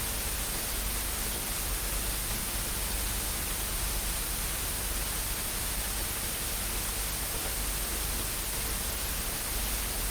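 Steady hiss of static noise with a faint low hum underneath, unchanging throughout.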